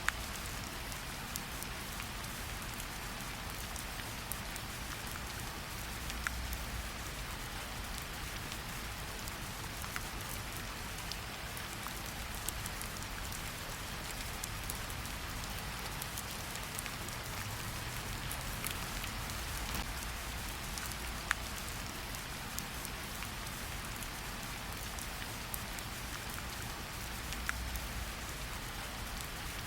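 Steady rain falling in a forest, an even hiss with scattered sharper drips of individual drops.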